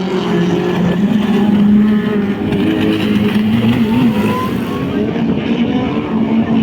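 Racing powerboat engines running hard, their pitch wavering up and down without a break.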